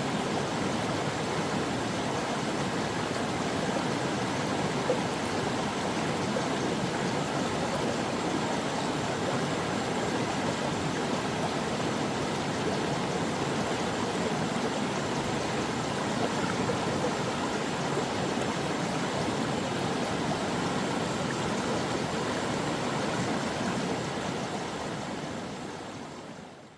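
Brook water flowing steadily, an even rushing sound that fades out over the last few seconds.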